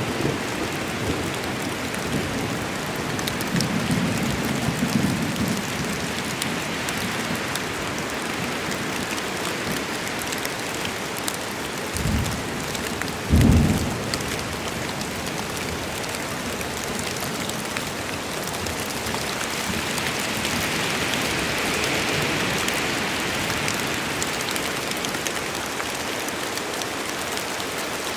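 Steady rain falling in a storm, an even hiss, with low thunder rumbling a few seconds in and two short, louder low rumbles about halfway through.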